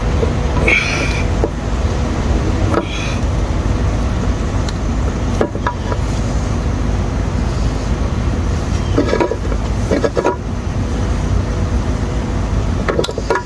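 Steady low background rumble with a few short, sharp clicks and clinks of steel transmission parts being handled as the big gear is worked loose from the gear case.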